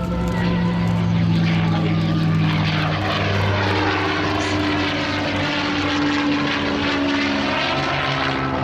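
Piston-engined propeller aircraft flying past, a steady engine note whose pitch drops about three seconds in as it passes.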